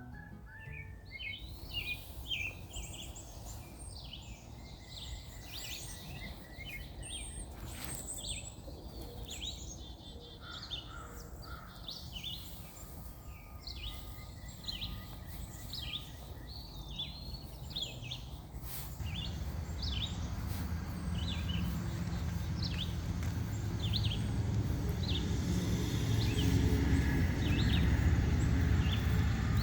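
Small wild birds chirping, many short high calls repeated throughout. A low rumbling noise grows louder in the last third.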